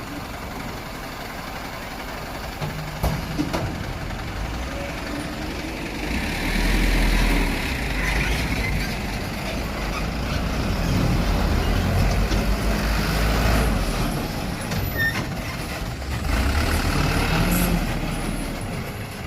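Dump truck engine running, swelling louder in several surges about a third of the way in, past halfway and near the end as it is worked, with a few short clicks early on.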